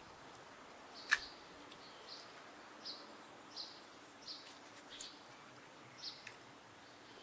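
Faint, short, high chirps repeating about every 0.7 s, like a small bird calling. A single sharp click about a second in stands out above them.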